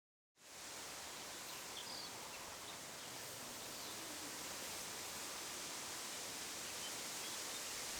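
Steady outdoor rushing noise with a few faint bird chirps about two seconds in, starting right after a brief cut to silence.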